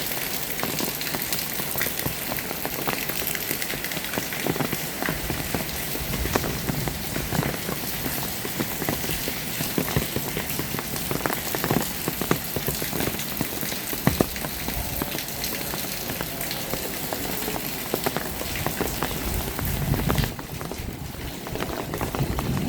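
Heavy rain falling on surfaces: a steady hiss with many single drops striking close by. About twenty seconds in, the hiss thins and quietens.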